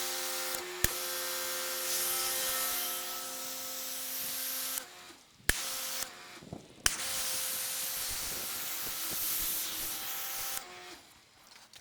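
Pressure washer with a foam cannon spraying, the motor's steady whine under the hiss of the spray, in two long trigger pulls with a short pause between, each starting with a click. The foam cannon is putting out less foam than it should, which the user puts down to a filter needing cleaning.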